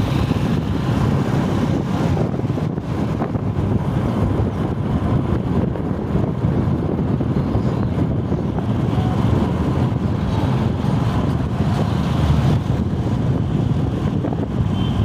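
Riding on a motorbike: steady engine and road noise with wind rushing over the microphone.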